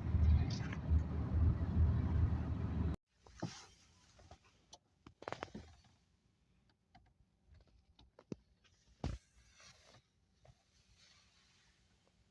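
A motor vehicle running with a steady low rumble, which cuts off abruptly about three seconds in. After that it is near silence with a few faint scattered clicks and knocks.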